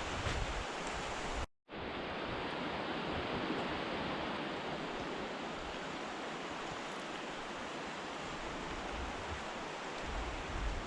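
Steady rushing of a river running high after heavy rain, with a split-second break in the sound about one and a half seconds in.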